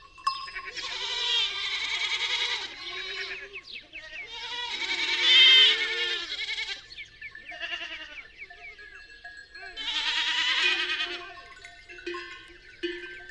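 Farm animals bleating: three long, loud calls and a few shorter ones. Near the end, bells begin ringing in an even rhythm.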